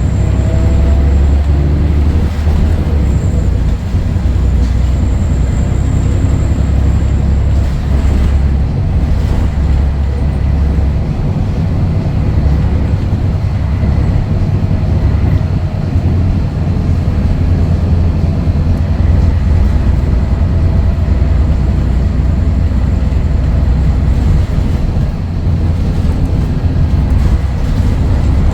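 Scania DSC11 inline-six turbodiesel of a Scania L113CRL bus running, a loud, steady low drone with small shifts in level.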